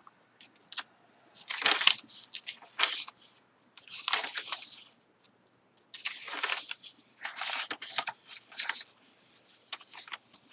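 Paper journal pages being turned and handled, a run of short rustling swishes with pauses between them.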